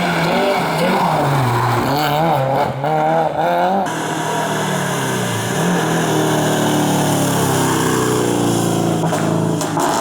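Historic rally car engines at racing speed. One engine revs up and down through gear changes, then about four seconds in there is an abrupt switch to another car holding a steadier, slowly rising note.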